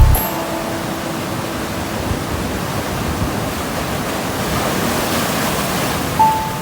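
Steady rush of seawater washing through a sea cave, swelling a little past the middle.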